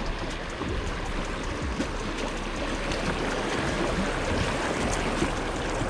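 Steady rush of flowing water from the high, fast-moving river, with a few faint ticks.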